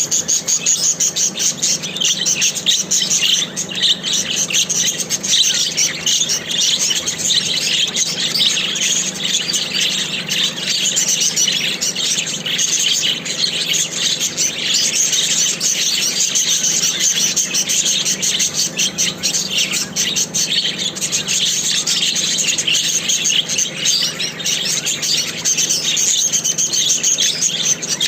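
Budgerigars chattering without a break: a dense stream of quick high chirps and warbles, over a faint steady low hum.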